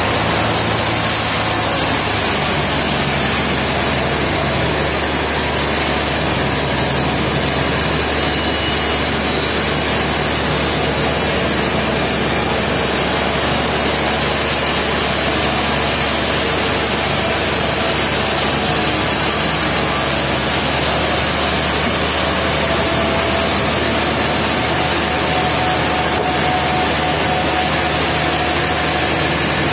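Sawmill machinery running steadily: a continuous engine drone under a dense, even noise.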